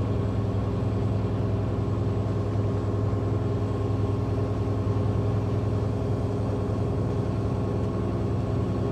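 Mack semi truck's diesel engine running at a steady, unchanging pitch while pulling a loaded lowboy trailer.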